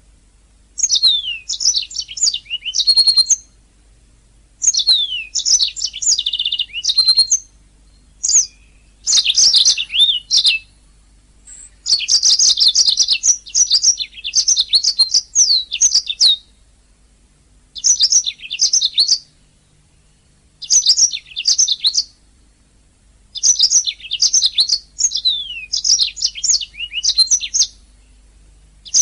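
Domestic canary singing: phrases of rapid chirps, warbles and trills, each one to four seconds long, separated by short pauses.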